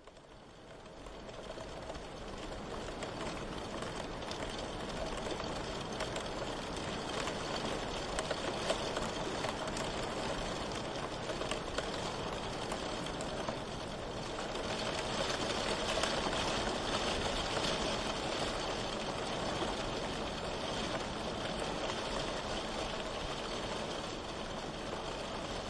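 Steady rain falling, a dense even hiss that fades in over the first couple of seconds and swells slightly midway.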